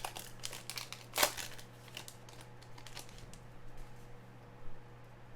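A pack of trading cards being handled: a foil wrapper crinkling and cards clicking against each other in a run of light crackles over the first two seconds or so, the sharpest about a second in, then fainter handling.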